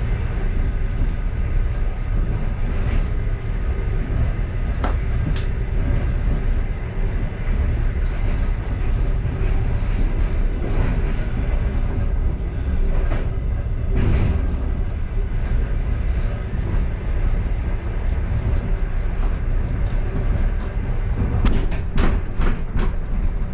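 Passenger train running, heard from inside its last car: a steady low rumble with occasional sharp knocks and clicks, several in quick succession near the end.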